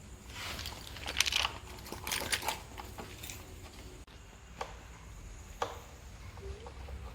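Rattling and clicking of bolts and headlight parts being handled while the motorcycle headlight assembly is fitted back on: a burst of small rattles in the first three seconds, then a few single clicks.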